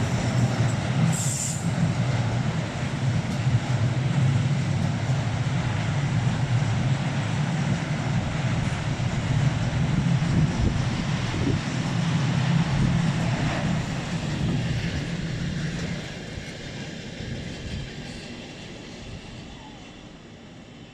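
Empty car-transport freight train rolling past: a steady low rumble of wagon wheels on the rails, with a brief high-pitched squeak about a second in. The rumble drops away about 16 seconds in and fades out.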